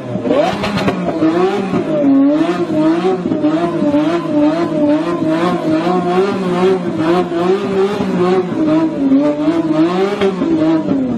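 A supercar's engine is held high in the revs, its pitch rising and falling about twice a second, with a rapid crackle of exhaust pops as it shoots flames from the exhaust. The revs fall away near the end.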